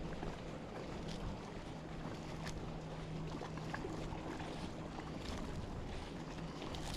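A motor hums steadily at a low pitch over a steady hiss of wind and water, with a few faint clicks.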